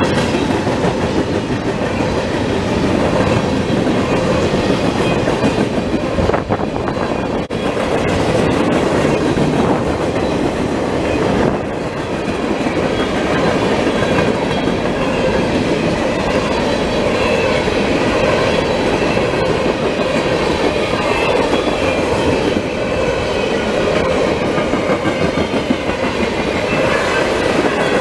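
CSX freight train rolling past: a steady rumble of the cars, with wheels clacking over the rail joints.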